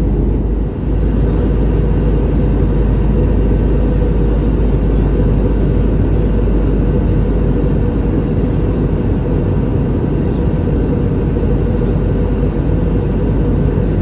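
Steady cabin noise of an Airbus A320 in flight, heard from inside the passenger cabin: an even, low rumble of airflow and its CFM56 engines.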